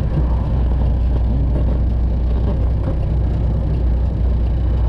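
Straight-piped Detroit diesel engine of a Freightliner Classic XL semi truck running steadily while driving, a deep, even drone.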